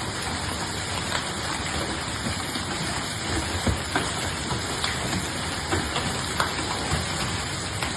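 Heavy rain and hail coming down in a steady rush, with scattered sharp knocks of hailstones striking hard surfaces, most of them in the middle part.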